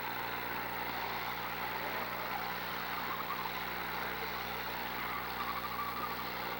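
Demolition derby car engines running together in the arena, a steady mix of engine noise without any single sharp crash.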